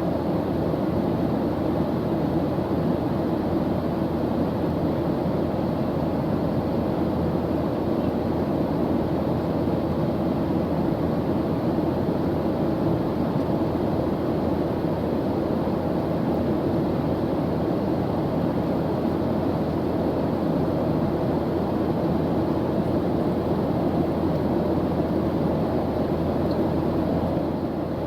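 Airplane engine noise in flight: a steady, deep, even noise that neither rises nor falls, with no separate tones or knocks.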